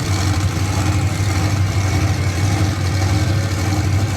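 Monster truck engines running steadily at idle, a constant deep drone with no big revs.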